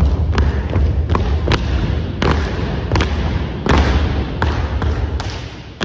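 Unarmed drill team stomping and striking hands in unison: a loud string of sharp hits, a few a second, over heavy thuds of feet on the floor.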